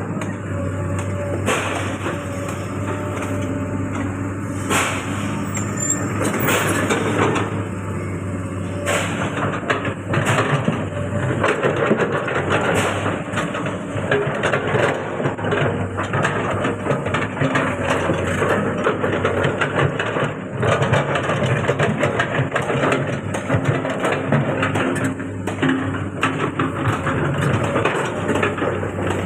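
Komatsu PC200 hydraulic excavator's diesel engine running steadily as the machine works, its loudness rising and falling, with frequent short clanks and knocks.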